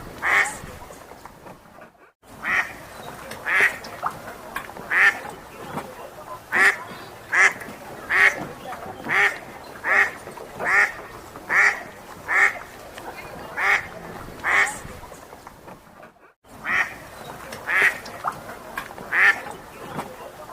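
A duck quacking over and over, about one quack a second, with two short breaks.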